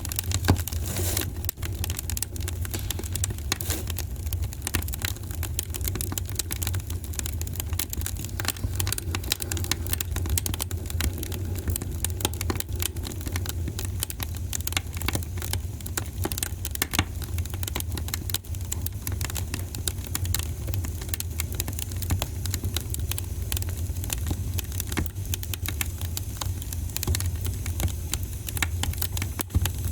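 Wood fire burning in a fireplace: dense, irregular crackles and pops over a steady low rumble, with one sharper pop about half a second in.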